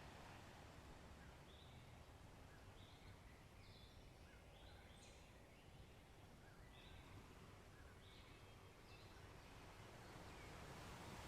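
Faint ambience of small birds chirping, short high notes repeated every second or so, over a soft steady wash of sea waves that swells near the end.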